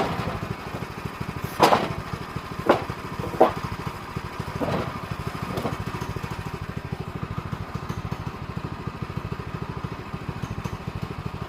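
Small engine idling steadily, most likely the sawmill's gas engine. Several short, sharp knocks come in the first half, two of them louder than the rest.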